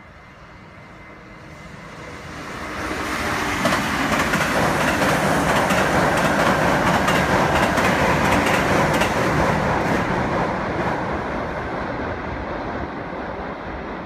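Electric passenger train crossing a steel truss railway bridge: the rumble of its wheels on the bridge builds up over about two seconds and runs loud for several seconds with clicks from the rail joints, then slowly fades as it moves away.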